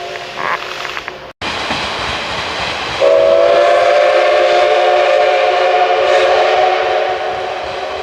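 Steam locomotive whistle of the SL Ginga's C58 239: a whistle chord sounds until a sudden cut a little over a second in. After a short stretch of the train's running noise, a long whistle of several tones at once starts about three seconds in, holds for about four seconds and fades near the end.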